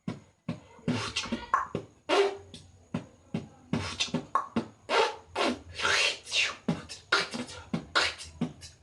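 Solo human beatboxing: a fast, irregular run of mouth-made kicks, snares and hi-hat clicks mixed with short pitched sweeps and vocal effects, combining several beatbox sounds into one routine.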